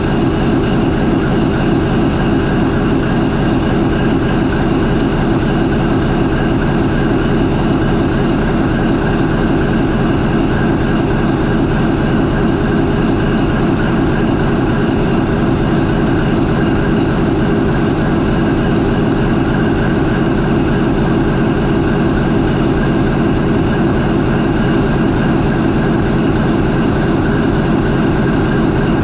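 MAN 20V28/33D STC twenty-cylinder medium-speed marine diesel main engine running steadily at idle, about 400 RPM, with a loud, even sound that does not change.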